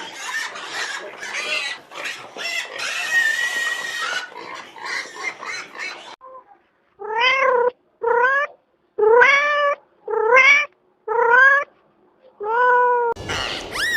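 A domestic cat meowing six times in a row, about a second apart, each meow rising and then falling in pitch. Before the meows comes a rougher, noisier stretch of sound lasting about six seconds.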